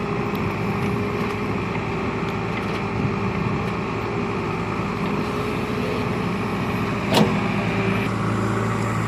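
A heavy vehicle's engine running steadily, with one sharp knock about seven seconds in.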